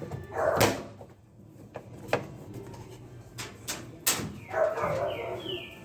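Plastic parts of a washing machine being handled and snapped into place: a few sharp clicks and knocks. Near the end come four quick rising high squeaks.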